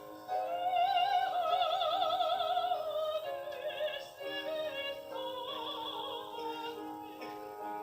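Soprano singing a Korean art song in classical operatic style, with a wide vibrato on long held notes. The voice drops out briefly at the very start before the next phrase begins.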